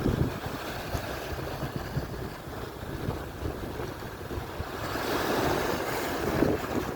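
Atlantic surf washing onto the shore, with wind buffeting the microphone; a wave surges in more loudly about five seconds in.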